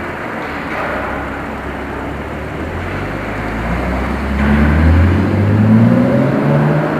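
Audi A6 3.0 TFSI supercharged V6 exhaust, running steadily and then accelerating from about three seconds in, its note rising in pitch and growing louder.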